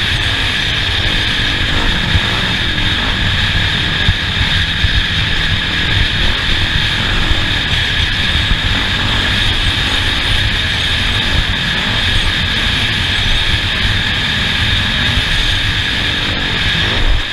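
Off-road race vehicle engine running hard and steadily while driving the track, with a constant high drone over the low engine noise.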